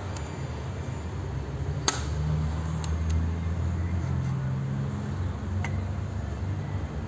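Volkswagen Golf V GT engine running with a knocking sound from the engine. A few sharp isolated clicks stand out over the steady engine hum, which grows a little louder about two seconds in.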